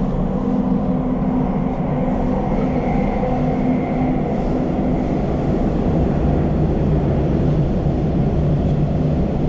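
Elizabeth line Class 345 train running through the tunnel, heard from inside the carriage: a steady rumble of wheels on rail, with a motor hum that fades about halfway through.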